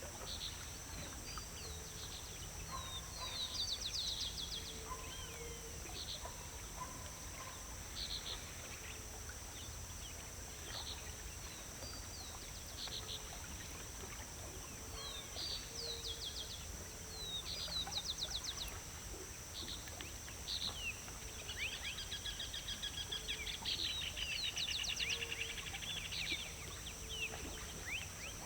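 Small songbirds chirping and giving quick trills, scattered throughout and busiest near the end, over a steady high-pitched hiss and low background noise.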